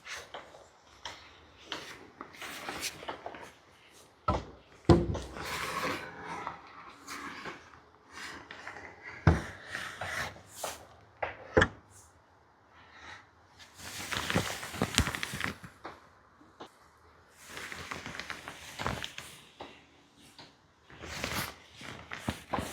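Scattered knocks, clunks and rustling of lumber being handled, irregular and at varying loudness, with the sharpest knocks about five and twelve seconds in.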